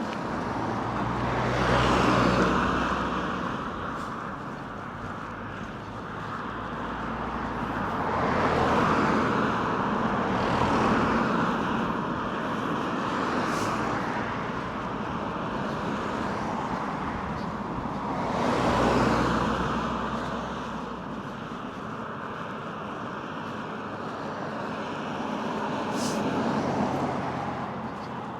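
Road traffic: about five vehicles pass one after another, each swelling up and fading away over a few seconds, over a steady background rumble.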